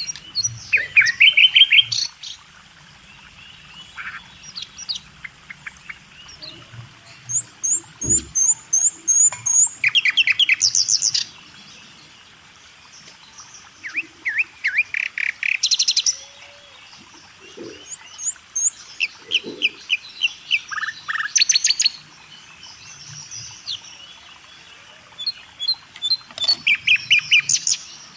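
Small birds chirping and singing in repeated bursts of rapid high chirps, a new burst every few seconds with quieter gaps between.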